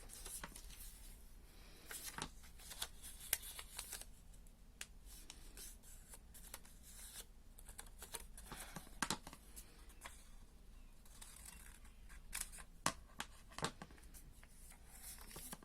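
Scissors cutting paper: short, sharp snips that come irregularly, with quiet pauses between cuts.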